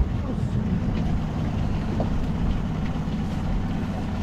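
Small boat's outboard motor running steadily under way, a constant low drone under a hiss of wind and water.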